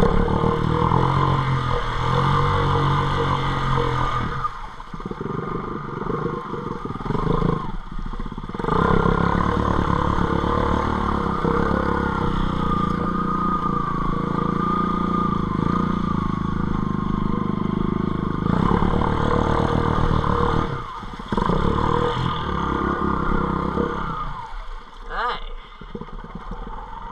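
Off-road bike engine revving and pulling under load as it is ridden through deep floodwater, the throttle rising and easing repeatedly, with short let-offs and a quieter stretch near the end.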